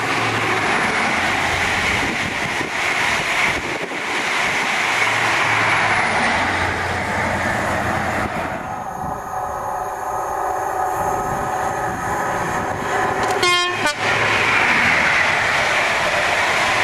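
A diesel High Speed Train with Class 43 power cars runs past at speed, its engine and wheels on the rails making a steady loud rush that fades after about eight seconds. A short horn toot sounds about thirteen and a half seconds in, and then a second train passes close by with a fresh rush of wheel and engine noise.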